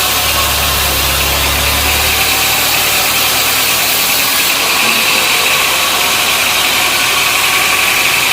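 Sawmill machinery running with a loud, steady mechanical noise. A low hum fades out about two seconds in, and a higher note grows stronger about halfway through.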